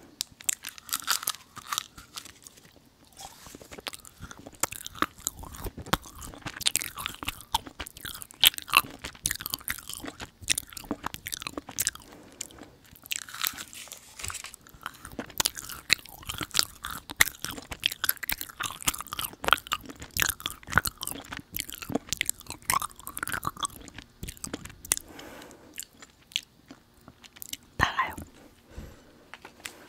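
Close-miked chewing and crunching of Hadir dried jujube sweets: a dense run of sharp, crisp bites and chews with short gaps.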